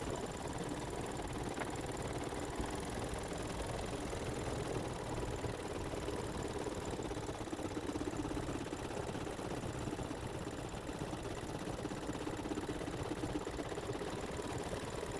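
Embroidery machine stitching out a satin-stitch trim: a steady, rapid mechanical running with a fast needle chatter.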